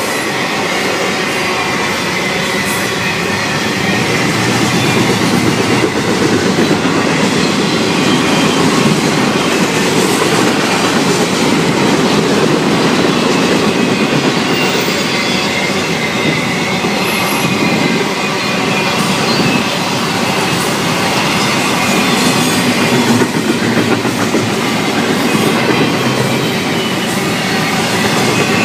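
Florida East Coast Railway freight train cars rolling past at speed: a steady, loud rumble with the clickety-clack of wheels over the rail and a faint high squeal from the wheels.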